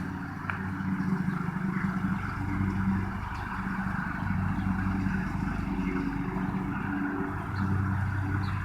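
A steady low engine hum, a motor vehicle idling.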